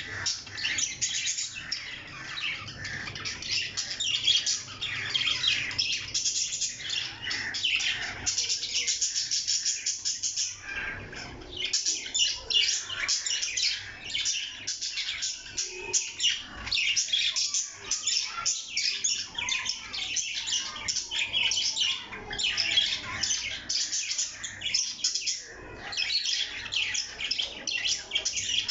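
Parrots chirping and squawking in a continuous stream of rapid, high-pitched calls.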